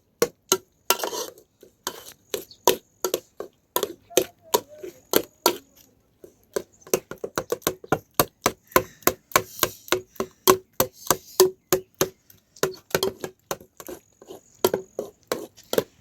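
A knife chopping on a wooden surface: sharp knocks in quick succession, several a second, with short pauses between runs.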